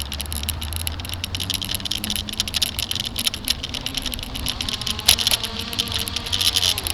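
Rapid rattling and clicking of a bike-mounted camera shaking as a bicycle rolls over rough pavement, over a low rumble of the ride.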